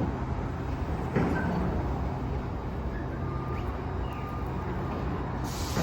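Battery-electric Crown mono-mast narrow-aisle reach truck running: a steady low motor hum, with a click about a second in and a short hiss near the end.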